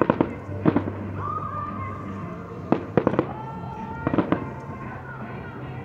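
Fireworks bursting: clusters of quick sharp bangs and crackles come at the start, about three seconds in and about four seconds in, over a steady background hum.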